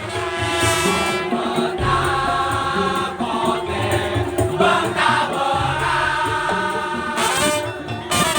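Madurese daul (tongtong) percussion ensemble playing: drums beat a steady rhythm under a sustained melody line.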